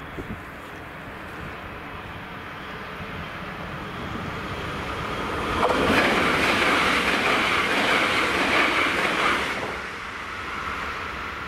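A train passing over the railway level crossing: its noise builds over the first few seconds, is loudest for about four seconds around the middle, then drops away.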